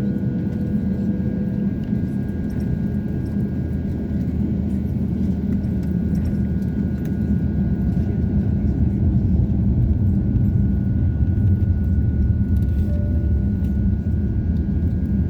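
Airliner cabin noise inside an Airbus A350-900: a steady low rumble from its Rolls-Royce Trent XWB engines and rolling gear, with a thin constant high whine, growing somewhat louder about halfway through.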